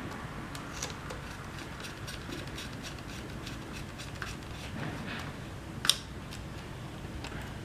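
Scattered small clicks and taps of small parts being handled during a repair, with one sharper, louder click about six seconds in.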